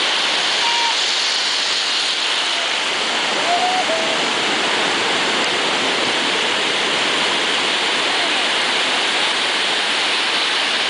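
Steady rushing noise of ocean surf breaking on the beach, with a few faint short calls in the distance.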